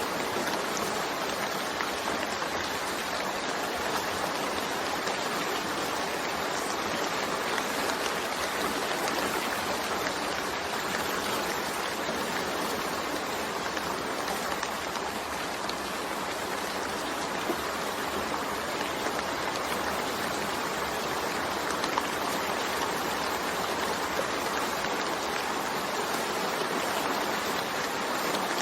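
Steady rain falling, an even dense patter with fine scattered drop ticks and no thunder.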